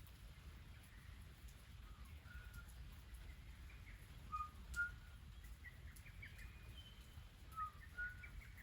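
Birds chirping faintly: short, scattered high calls, with two louder pairs of notes about halfway through and near the end.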